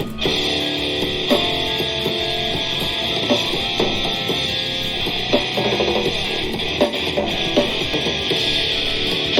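Loud rock music with guitar and drums, played from a music speaker.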